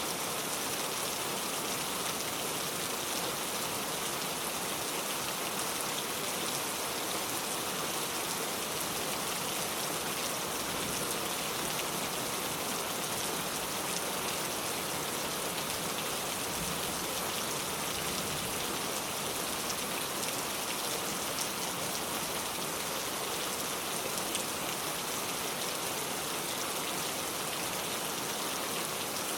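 Steady rain falling on a car, a constant patter of many drops at an even level with no letup.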